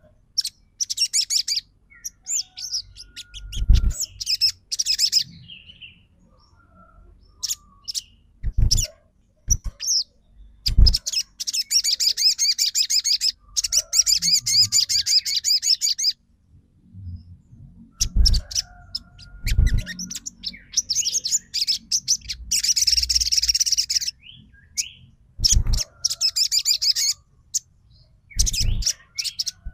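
A sunbird (sogon) singing in bursts of rapid, high-pitched chirps and trills, some running for two to four seconds, with short pauses between them. A few dull low thumps are heard now and then.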